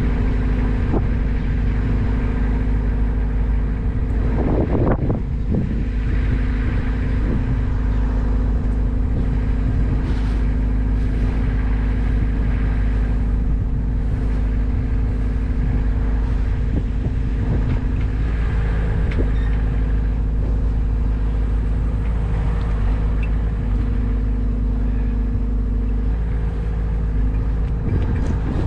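An engine running steadily at a constant speed, with a deep low rumble and no change in pitch.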